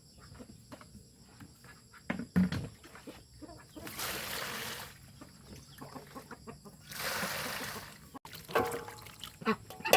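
Chickens clucking, with scattered knocks and two rushes of hiss, each about a second long, near the middle.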